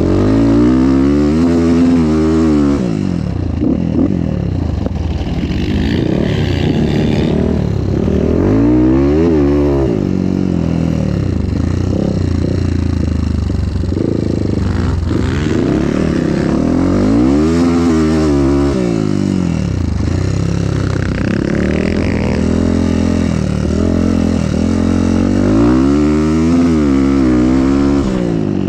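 Motorcycle engine under way, its pitch climbing and dropping back about four times as the bike accelerates and eases off.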